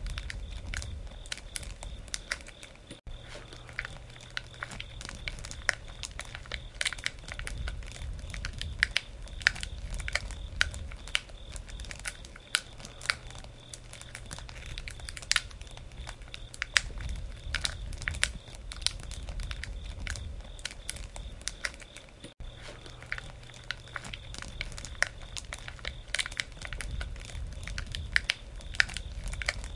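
Wood campfire burning: irregular crackling with frequent sharp pops over a low, steady rumble.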